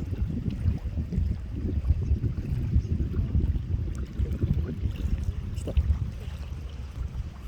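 Wind buffeting the microphone: an uneven low rumble that keeps rising and falling.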